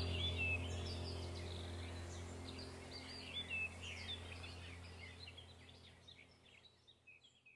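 Small birds chirping and twittering, with many quick high chirps, over a low steady hum. Both fade out gradually to near silence by the end.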